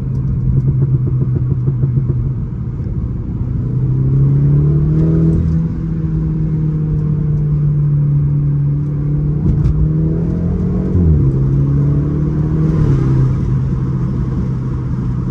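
A 2018 BMW 330i's Stage 1 tuned, B48 2.0-litre turbocharged four-cylinder engine pulling steadily while driving. Its note rises a few seconds in, then dips and recovers twice in the second half, as with gear changes.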